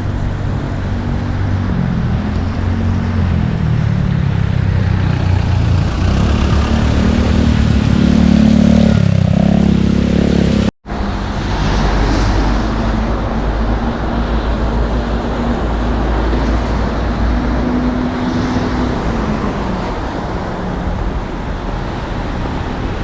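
Road traffic: engines running with a low hum, one vehicle growing louder and rising in pitch for a few seconds before the sound cuts off for an instant about halfway through, then traffic noise again.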